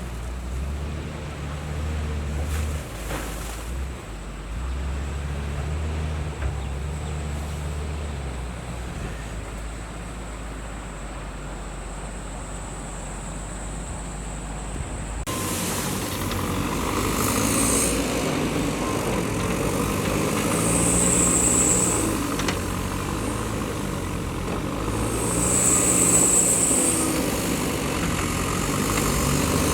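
Engines of heavy earthmoving machinery running steadily, the sound changing abruptly about halfway through. In the second half, short high squeals come three times over the engine noise.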